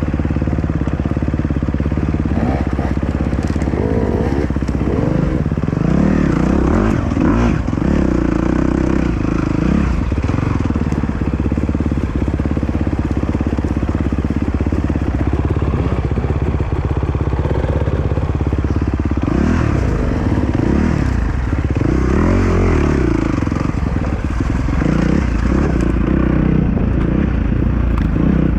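Dirt bike engine running and revving up and down several times, its pitch rising and falling.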